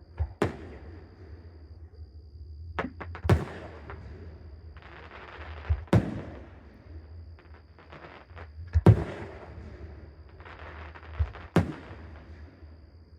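Aerial fireworks shells bursting overhead: sharp bangs every two to three seconds, the loudest a little past the middle, with crackling between the reports. A faint steady high tone runs underneath.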